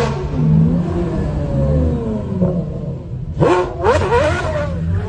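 Italian supercar engine running, then revved sharply a couple of times about three and a half seconds in, the pitch jumping up and dropping back.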